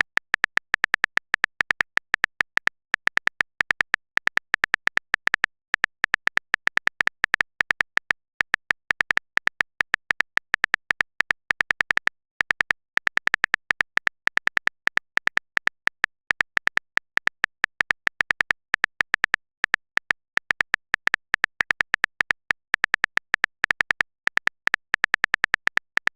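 Typing sound effect: rapid, irregular key clicks, several a second, with short pauses between bursts.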